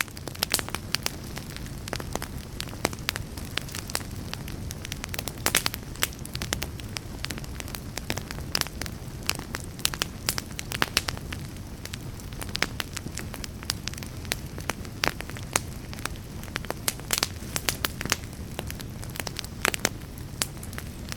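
Fire burning in a fireplace: frequent sharp crackles and pops over a steady low rumble of the flames.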